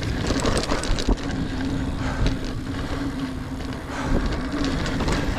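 Niner Air 9 RDO 29er mountain bike riding dirt singletrack: knobby tyres rolling with scattered clicks and rattles from the bike, and wind on the microphone.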